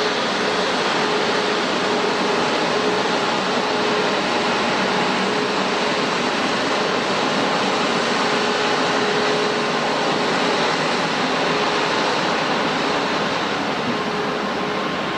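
Jet engines of a Japan Airlines Airbus A350, Rolls-Royce Trent XWB turbofans, running at power. They make a loud, steady rush with a faint whine held through it, easing off slightly near the end.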